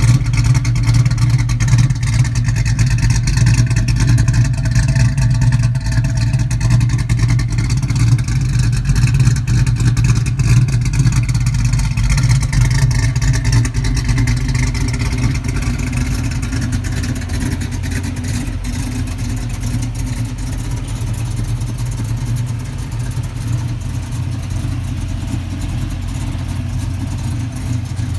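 1985 Ford Mustang 5.0's V8 idling steadily through its exhaust, a little quieter in the second half.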